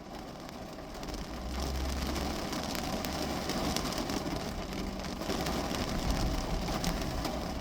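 Steady rain falling on the roof and windows of a parked car, heard from inside the cabin, with many small drop ticks. A low rumble rises about a second in and fades a second later.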